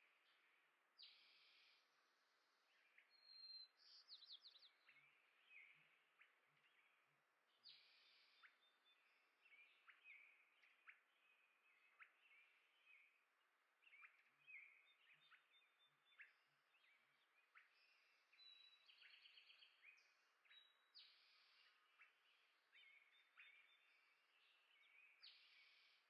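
Small songbirds chirping and calling at a feeder, faint and frequent: short high chirps, sharp down-slurred notes and a few buzzy trills, overlapping and irregular.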